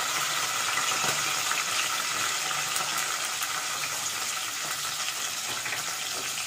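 Sliced shallots frying in hot oil with mustard seeds and dried red chillies for a tempering: a steady sizzle that eases slightly toward the end.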